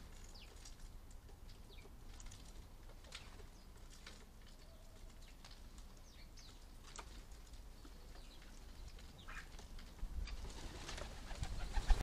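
Faint, scattered chirps of small garden birds calling in the background over a low rumble. The rumble swells in the last two seconds and ends in one sharp knock.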